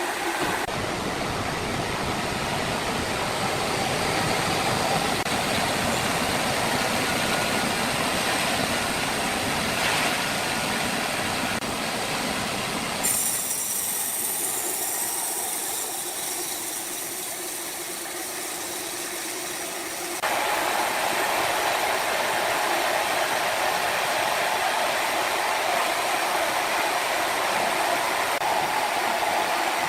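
Sawmill machinery running steadily as red oak logs are sawn. The noise changes abruptly twice, about 13 seconds and 20 seconds in.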